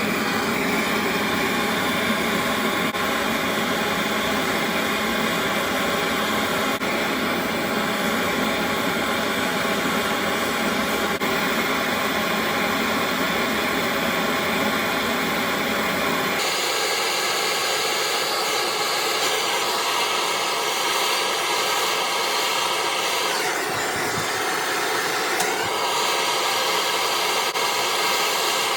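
Electric heat gun running steadily, its fan whining over a continuous rush of blown air, used to warm the vaporiser casting and free off seized parts. Its tone shifts abruptly about halfway through.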